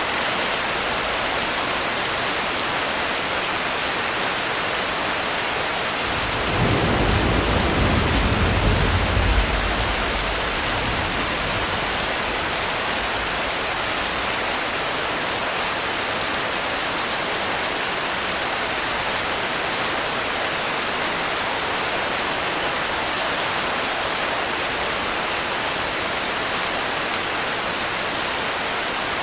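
Steady heavy rain hiss with one low roll of thunder that swells about six seconds in and dies away some three seconds later.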